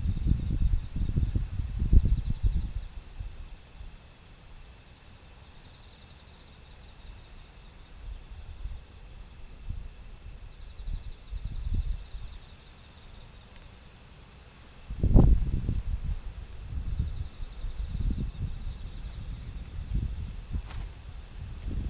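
Typhoon wind gusting against the microphone in low rumbling buffets, easing after the first few seconds and returning strongest about 15 seconds in. Under it, insects keep up a steady, fast-pulsing high trill.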